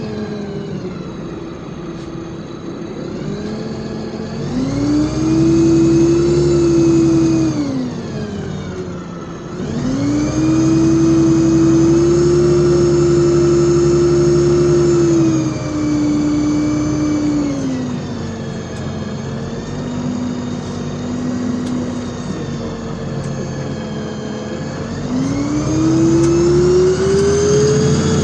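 LiAZ 5292.65 city bus engine and drivetrain heard from inside the cabin, pulling away and accelerating with a rising whine. It holds speed, drops back, and accelerates again twice, the last time near the end.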